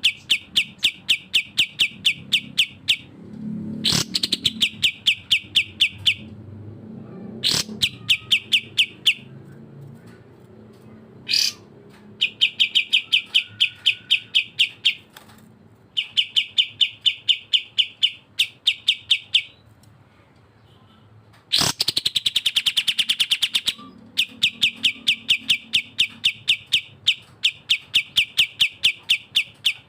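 Cage songbirds, cucak jenggot and kapas tembak, chattering in rapid ticking trills of about ten notes a second, in phrases of roughly three seconds. A few sharp upswept calls cut in, the loudest about twenty-two seconds in, followed by a fast trill.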